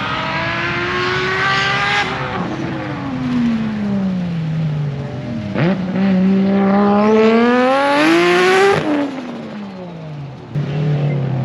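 Rally car engine at full throttle on a tarmac stage. Its pitch climbs for about two seconds, then falls away. From about six seconds a second loud, steep climb peaks near nine seconds, drops abruptly, and falls away as the car passes.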